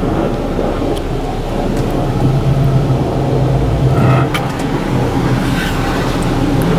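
A car engine running as the car pulls forward, with a steady rushing noise and a low hum that strengthens in the middle.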